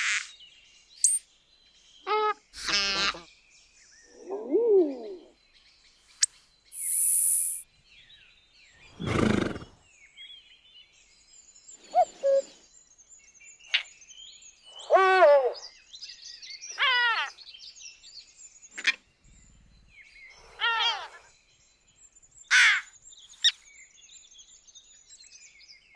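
Birds calling: a string of separate short calls and chirps of varied pitch, several sliding quickly downward, with a brief high hiss about seven seconds in.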